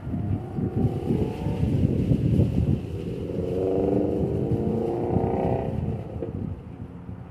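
Accordion shutter panels being slid along their track: a rough, rattling rumble, with a wavering squeal for about three seconds in the middle.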